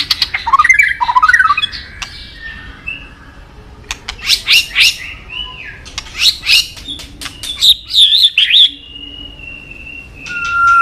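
White-rumped shama (murai batu) singing: bursts of rapid clicking and chattering notes mixed with quick whistled glides, ending in a long, held whistle.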